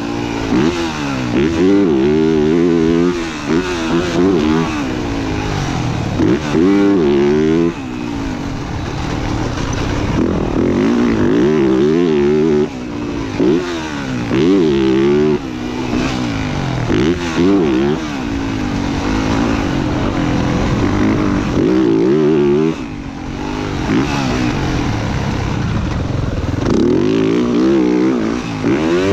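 Motocross dirt bike engine revving hard and shifting up, the pitch rising again and again, with the throttle chopped off several times for jumps and corners while riding a lap of the track.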